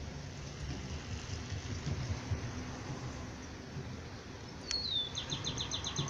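Steady low outdoor rumble. About two thirds of the way in, a bird gives a short falling whistle followed at once by a fast trill of about ten quick high notes.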